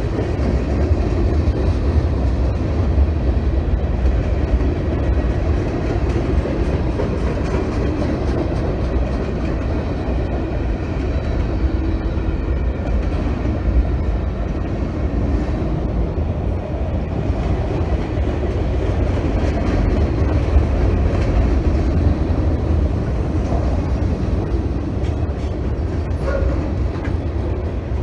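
Freight train cars (tank cars, a covered hopper and an autorack) rolling past at close range: a steady, loud rumble of steel wheels on the rails.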